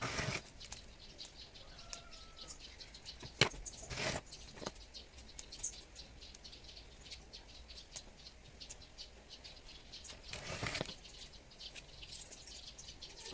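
Scattered small clicks and rustling, with one sharp click about three and a half seconds in and brief louder rustles at the start, around four seconds and around ten and a half seconds in.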